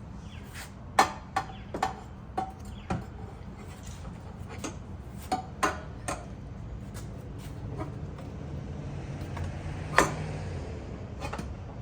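Scattered metallic clinks and knocks from steel exhaust pipework being handled and fitted to its hangers, some with a short ring. The sharpest knocks come about a second in and near the end.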